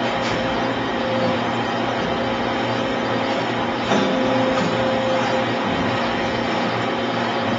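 CNC bending machine running: a steady mechanical hum and whine, with a single sharp clunk about four seconds in.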